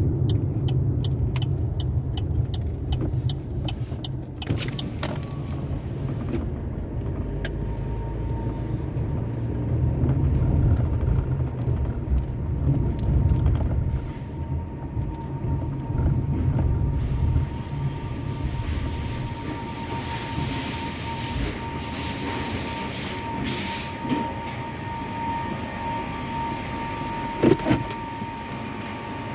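Automatic car wash tunnel equipment running: a steady low rumble, joined about halfway through by a broad hiss and a steady whine, with a brief sharp hiss and a thump near the end.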